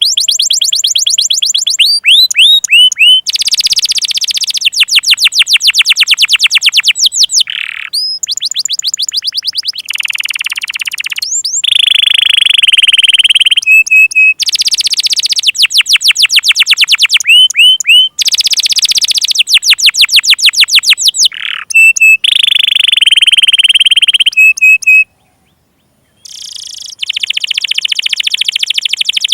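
Domestic canary song: loud, fast trills of rapidly repeated notes in phrases of a second or two, switching between high sweeping rolls and lower buzzy ones, with short breaks and a brief gap about 25 seconds in. This is the kind of full song played as a lure to get young or non-singing canaries to sing.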